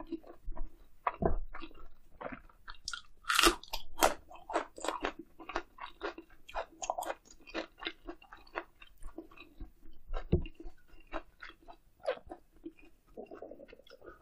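Close-miked chewing and biting of grilled eel, with crisp crunches and wet mouth clicks; the loudest crunching comes about three to four seconds in.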